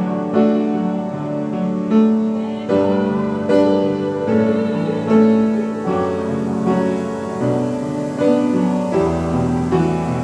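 Piano playing slow, sustained chords, a new chord struck about every second.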